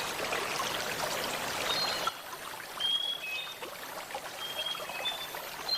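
Running water of a rainforest stream for about two seconds, then an abrupt cut to a quieter forest background with scattered short, high whistled calls.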